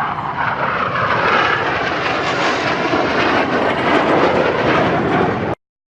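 Jet noise from Blue Angels F/A-18 Hornets flying past: a loud, dense rush that builds over the first second and drops lower in pitch as it goes, then cuts off suddenly near the end.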